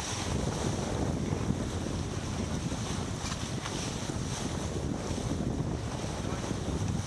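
Wind buffeting the microphone aboard a sailboat under way, a steady rumble, with water washing along the hull.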